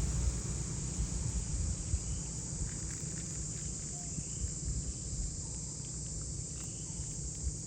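A steady, high-pitched insect chorus over a low, uneven rumble.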